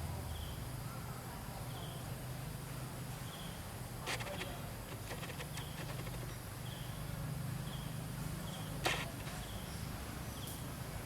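Outdoor ambience: a short, high chirp repeats about once a second over a low, steady hum. Two sharp knocks come about four seconds and nine seconds in.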